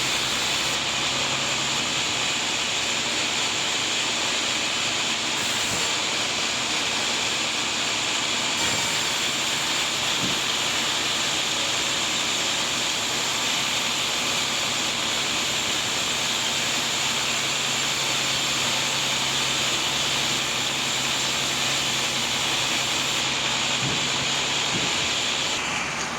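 Sawmill bandsaw running through a large teak log: a steady hissing cut over a low motor hum.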